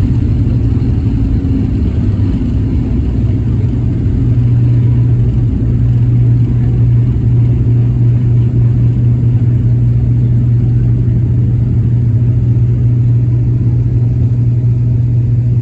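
Steady, loud low rumble of a vehicle in motion, with a constant deep hum and no change in pitch.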